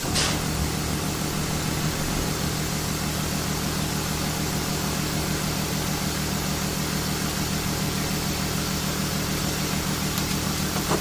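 Kia Sportage R engine idling steadily, freshly refilled with synthetic 5W-40 oil, with a brief sharp sound just as the idle sound begins.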